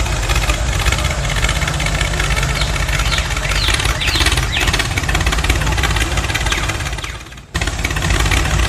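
Small single-cylinder petrol engine of a homemade mini tractor running with a rapid, steady chatter. The sound drops out briefly about seven seconds in, then comes back.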